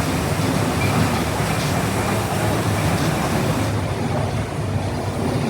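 Steady mechanical rumble and hiss of running machinery, with a low hum underneath; the higher hiss eases off about four seconds in.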